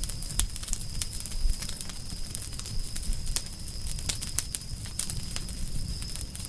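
Campfire of burning firewood crackling and popping in irregular sharp snaps, several a second, over a low rumble of the flames. A thin, steady high-pitched tone runs underneath.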